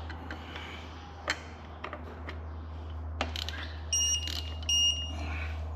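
Two short electronic beeps from a digital torque wrench as an exhaust manifold bolt reaches its set torque, after a few sharp ratchet clicks while the bolt is tightened. A steady low hum lies underneath.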